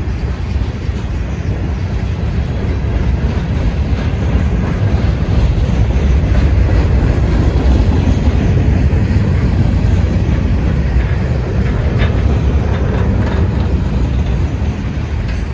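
Freight train rolling past, a steady rumble of wheels on the rails with clickety-clack over the rail joints, swelling to its loudest about halfway through.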